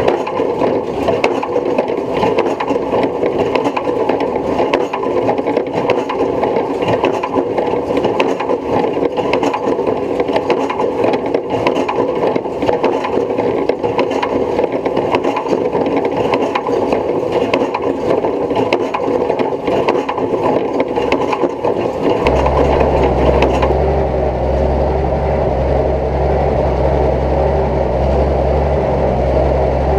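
Tractor-drawn square baler at work, a continuous busy mechanical clatter and rattle. About 22 seconds in, this gives way abruptly to a steady low engine drone.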